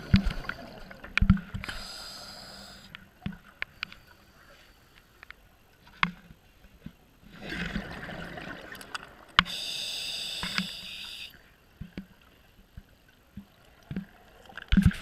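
Scuba diver breathing through a regulator underwater. A hissing inhale comes about two seconds in, then a rush of exhaust bubbles around seven to nine seconds, and another hissing inhale near ten seconds. Scattered clicks and knocks run throughout.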